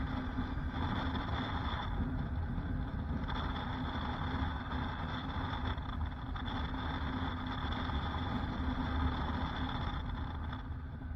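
Motorcycle engine running steadily at an even pace.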